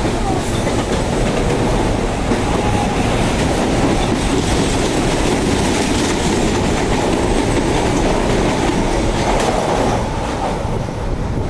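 Electric commuter train running past on the rails, a steady loud rumble of wheels and cars.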